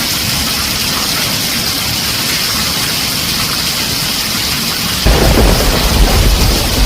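Heavy rain falling on a tin roof, a steady dense hiss. About five seconds in, loud low thunder rumbles in suddenly over the rain.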